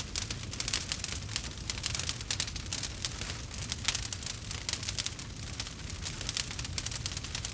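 Wood fire crackling and popping steadily, with many irregular snaps over a low, even rumble of the burning.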